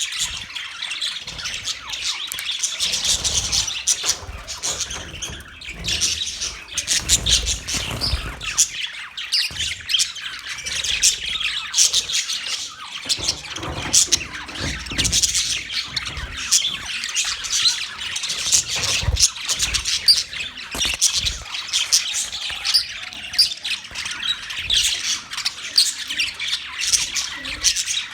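A group of budgerigars chattering continuously, with rapid chirps and sharp squawks overlapping. Low rumbles come and go underneath.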